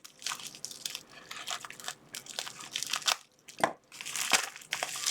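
Plastic packaging being handled and torn open: irregular crinkling and crunching, with a couple of brief pauses.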